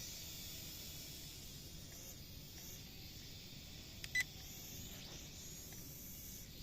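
Small JC801 toy quadcopter's propellers giving a steady faint high hiss and whine, with a single short electronic beep about four seconds in.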